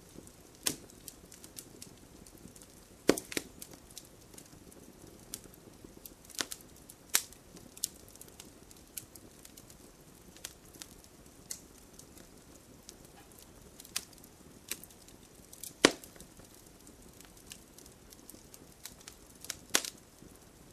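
Wood fire crackling: irregular sharp pops and snaps over a low steady hiss, with louder pops about 3, 16 and 20 seconds in.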